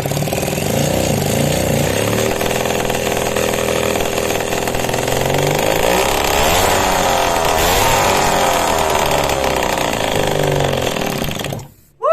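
Motorcycle engine running, its pitch rising and falling as it is revved, then cutting off abruptly near the end.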